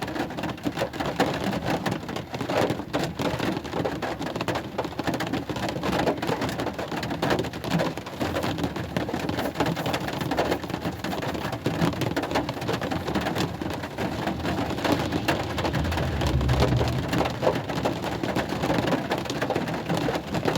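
Steady rain falling, a dense patter of drops hitting a surface. A short low rumble comes in about three-quarters of the way through.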